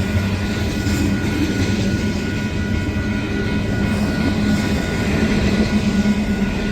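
Railroad train rolling past close by: a steady, loud rumble with a few faint steady high tones over it.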